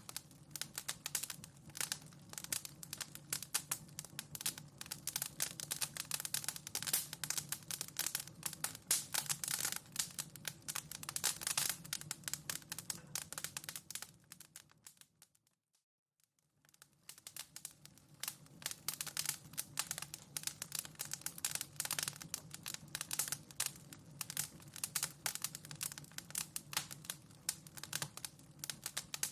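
Wood fire in a fireplace crackling, with dense irregular pops and snaps over a low steady rumble of the flames. About halfway through, the sound fades out to near silence for a second or so and fades back in.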